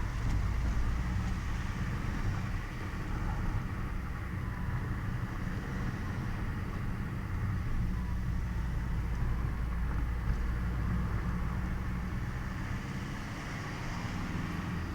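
1.9 CDTI four-cylinder turbodiesel engine running steadily at idle shortly after start-up, making the odd noise that the owner puts down to the turbo.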